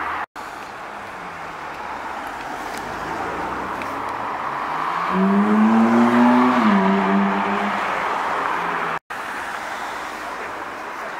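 Ferrari V8 sports car driving close past, its engine note climbing and then dropping about two-thirds of the way through, over steady street traffic noise. The sound cuts out for a moment twice.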